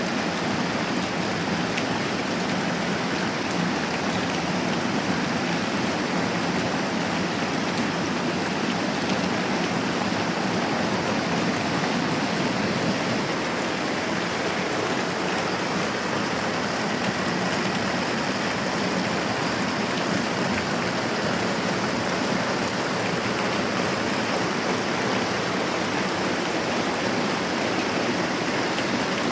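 Moderate rain falling steadily, an even hiss that does not change.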